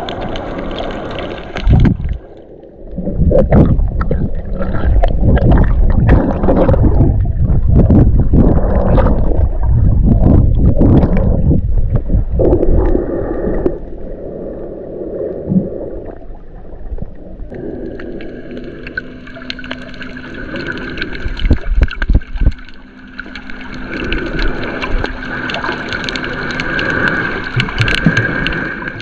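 Sea water sloshing and gurgling around a camera held in shallow water, loud and irregular for the first half, then a steadier wash with a faint steady hum.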